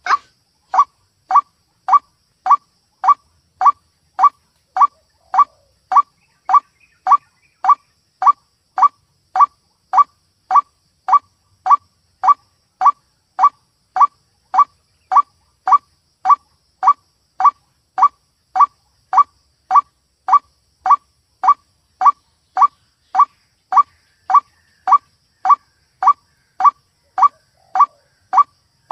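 White-breasted waterhen (ruak-ruak) call: one short note repeated evenly, just under two a second and without a break, as in a looped bird-lure recording.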